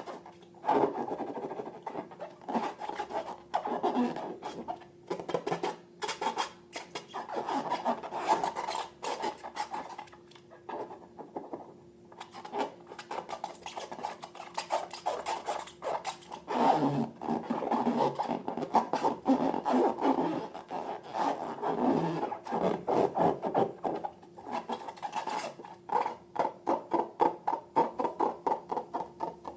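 Slime being worked by hand, a steady run of rubbing with irregular sticky clicks and crackles that become a quick, even series of pops near the end.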